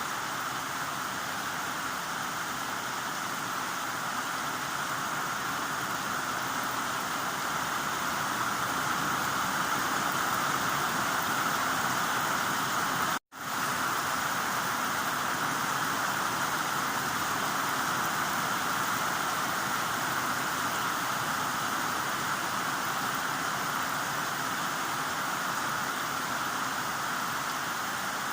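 Heavy rain falling as a steady, even hiss. About halfway through the sound cuts out for a moment and then resumes.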